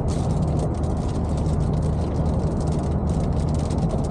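Steady engine and road rumble inside a moving taxi, with dense, rapid, irregular ticking of hail and rain striking the car's body and windows.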